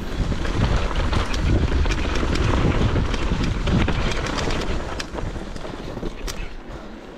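Mountain bike descending fast over a rough, rocky trail: a rumbling roll with many small clicks and rattles, and wind buffeting the microphone. It eases off somewhat near the end.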